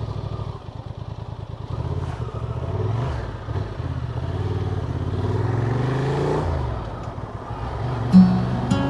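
Honda Transalp motorcycle engine running while riding, the revs rising and falling a couple of times.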